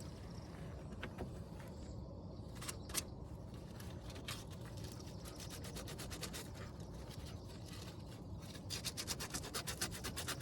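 Hand sanding with a small piece of sandpaper: scattered rubbing and scraping strokes with a few light clicks, speeding up near the end into a quick, even run of back-and-forth strokes.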